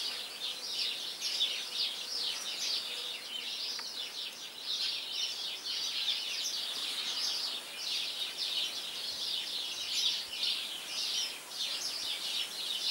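Small birds chirping and twittering without pause, many short high notes overlapping into a dense chorus.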